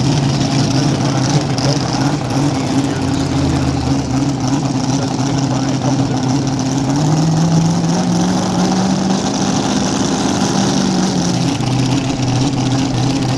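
An engine idling steadily, raised to a faster idle about seven seconds in and dropped back a few seconds later.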